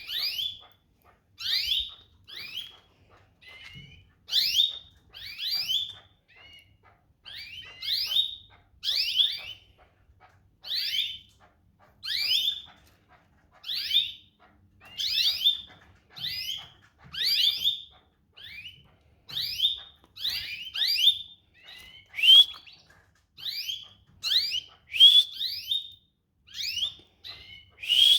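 Domestic canary chirping: a long run of short, sharp high notes, about one or two a second with brief pauses between groups.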